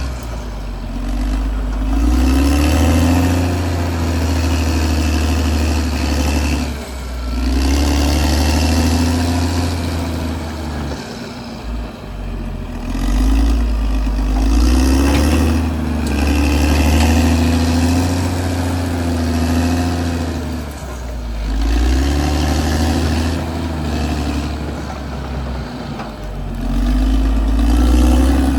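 Caterpillar D6R XL bulldozer's diesel engine working under load. It swells and eases every few seconds as the dozer pushes and then backs off.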